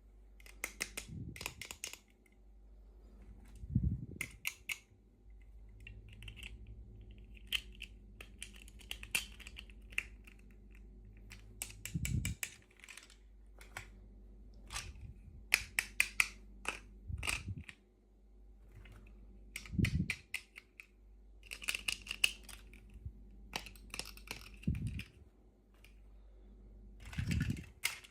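Hands handling and opening crinkly plastic toy packaging: bursts of crackling and sharp clicks, with a few soft low thumps as pieces are set down.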